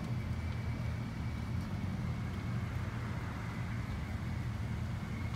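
Harley-Davidson CVO Softail's air-cooled V-twin running steadily through its stock mufflers, with a deep, even exhaust note and no revving.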